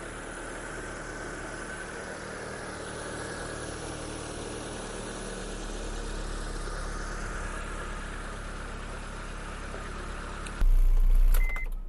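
The 2002 Proton Waja's 4G18 four-cylinder engine idling steadily just after being started for the first time in a long while. Near the end the sound cuts to a louder low hum with a few short high beeps.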